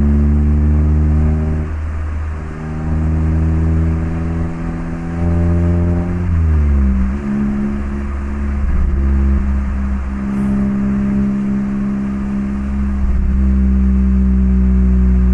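Mazda MX-5 ND Roadster's 1.5-litre inline-four running through an HKS Legamax Sports aftermarket exhaust, pulling up through the revs with an upshift about two seconds in. It climbs again, then drops steeply in pitch about six seconds in and settles to a steady drone, with one short break near the end.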